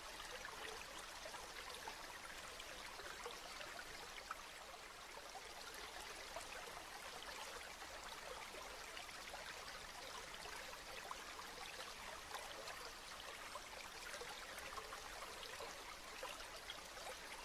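Steady rain falling, a dense, even patter of many small drops with no let-up.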